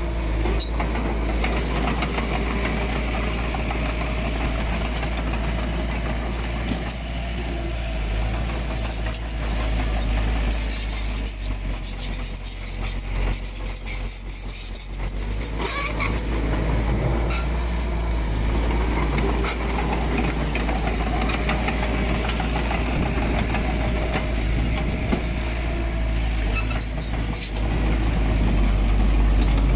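Komatsu D20P crawler bulldozer's diesel engine running steadily, easing off for a few seconds near the middle. Scattered metallic clinks and clanks come midway and again near the end.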